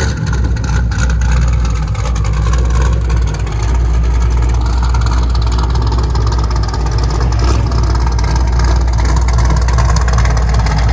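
LSX-swapped Camaro SS V8 running steadily and loud through long tube headers, high-flow cats, an X-pipe and true dual 3-inch straight pipes with the mufflers removed.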